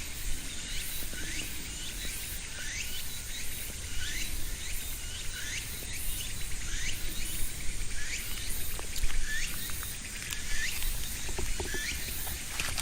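A bird calling: a short rising chirp repeated about once a second over a steady high outdoor hiss.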